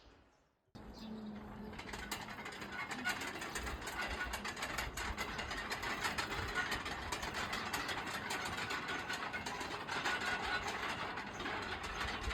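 Dense mechanical clattering and rattling, many rapid clicks over a steady hiss, starting abruptly less than a second in.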